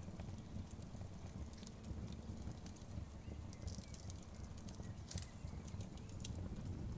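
Wood fire burning in a fireplace: a steady low rumble with irregular sharp crackles and pops from the logs, a few louder ones about five seconds in.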